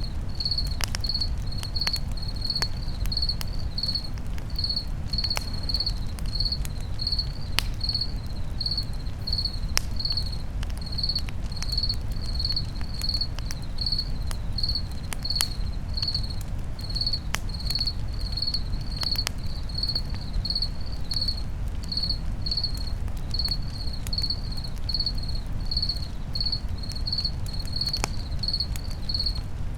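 Campfire crackling, with sharp pops scattered throughout over a steady low rumble. A cricket chirps evenly throughout at about two chirps a second.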